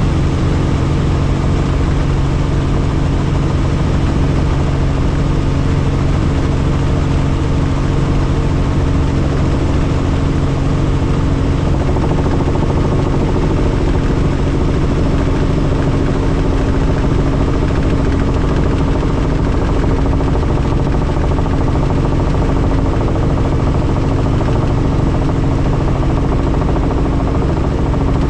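Helicopter in flight, heard from inside the cabin: a loud, steady drone of engine and rotor with a constant low hum.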